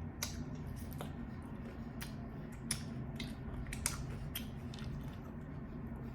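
Close-miked chewing and biting: a person eating, with wet mouth clicks and smacks at irregular intervals over a steady low hum.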